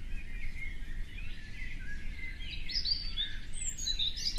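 Birds chirping, a string of short gliding calls that grows busier in the second half, over a steady low background noise.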